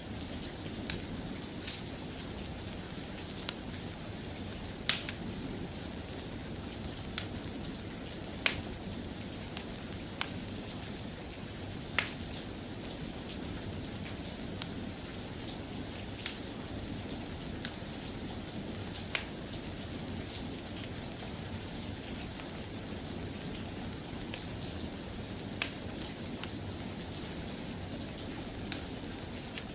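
Steady rain falling, an even hiss, with sharp single ticks and pops every second or two.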